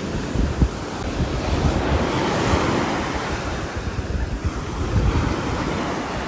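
Steady rain falling on a roof: an even hiss over a low, fluctuating rumble.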